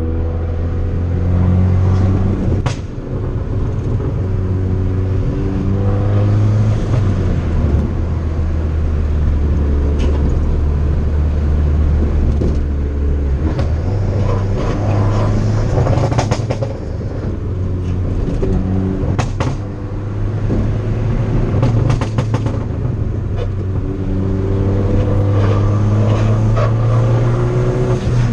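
Tuned 2013 Fiat 500 Abarth's turbocharged 1.4-litre four-cylinder running hard, its pitch climbing and dropping again and again as it accelerates and shifts. Several sharp exhaust pops and crackles sound as the throttle closes, from its pops-and-bangs tune.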